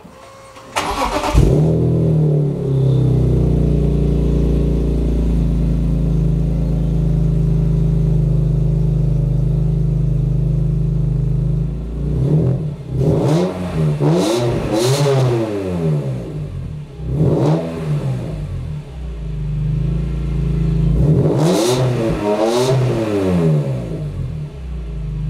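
BMW E46 M3's S54 inline-six, on a Billy Boat exhaust with the stock section 1 and 2 pipes kept, starting about a second in and settling into a steady idle. It is then blipped several times, each rev rising and falling quickly: a few together about halfway through, one more shortly after, and two near the end.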